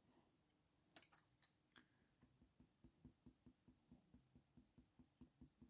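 Very faint sound of a Faber-Castell Polychromos coloured pencil shading with light pressure on hot-press watercolour paper: soft, even strokes about five a second, with two small clicks about a second in.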